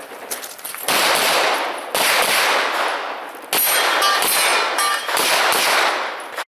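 Rapid gunfire with metallic clanging, in dense bursts about a second long, cutting off abruptly near the end.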